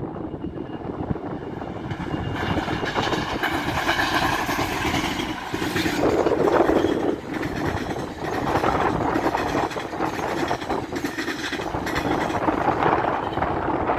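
Two GO Transit MP40 diesel locomotives leading an eight-car bilevel commuter train past at about 100 km/h: a steady rush of engine and wheel noise that builds, is loudest as the locomotives go by about six seconds in, then carries on as the coaches pass, with some wheel clatter.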